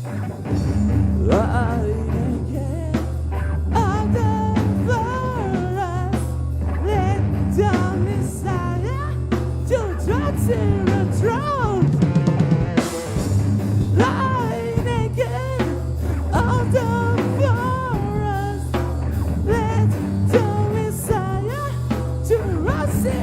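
Live heavy metal band playing: drum kit with bass drum and snare, distorted guitars and bass, and a wavering lead line over the top. There is a fast drum roll about halfway through.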